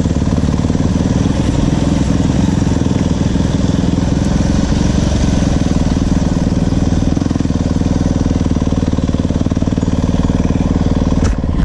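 Dirt bike engine running steadily at a fairly constant speed, with no clear revving. A sharp click comes near the end.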